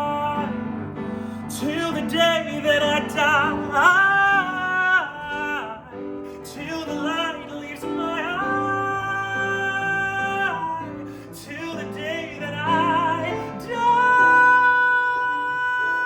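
Music: a singer's wordless vocal runs with vibrato and long held notes over sustained piano or keyboard chords.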